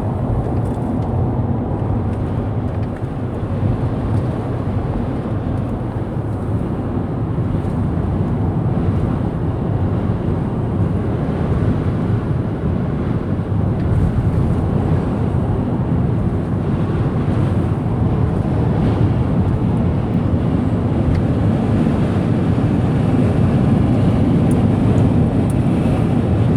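Steady road and engine rumble with wind noise inside a moving car's cabin, growing slightly louder toward the end.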